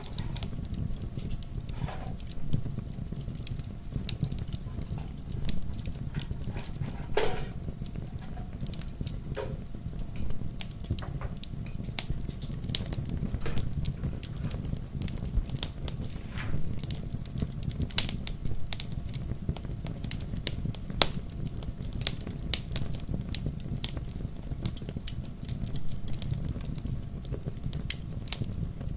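Wood fire burning in a fireplace: a steady low rumble of flames with frequent irregular crackles and pops, a few sharper pops standing out.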